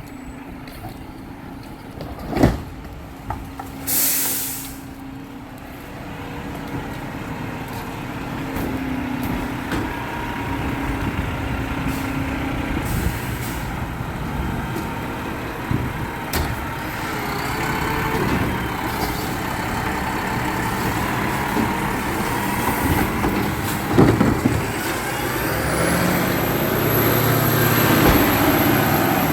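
Garbage truck working: a sharp bang about two seconds in, then a short hiss of air about four seconds in. After that the diesel engine runs and revs up louder, with a few clanks.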